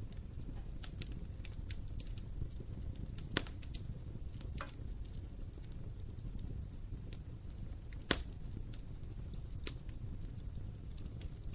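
Wood fire burning in an open fireplace: a steady low rumble of flame with scattered crackles, and a few louder pops about a third of the way in, at about two thirds and near the end.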